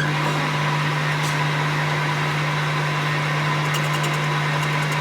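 A workshop machine running steadily: an even low hum with a rushing hiss above it.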